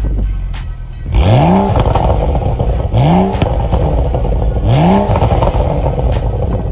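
BMW M135i with a bypass exhaust being blipped from idle: three quick revs, each a sharp rise and fall in pitch, about 1.7 s apart, starting about a second in, with crackles from the exhaust in between.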